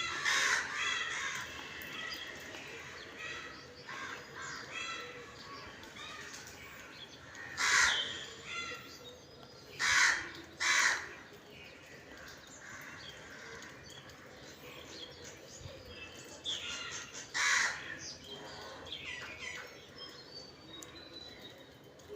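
Crows cawing again and again: loud harsh caws about half a second in, around eight seconds, twice around ten to eleven seconds and again around seventeen seconds, with fainter calls in between.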